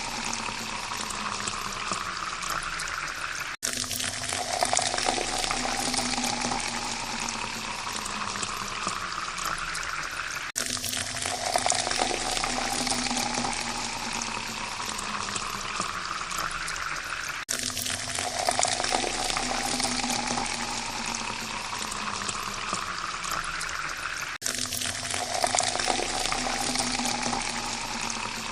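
Water poured in a steady stream into a glass, splashing, with the pitch rising as the glass fills. The pour repeats about every seven seconds, four times, each new pour starting after a brief dropout.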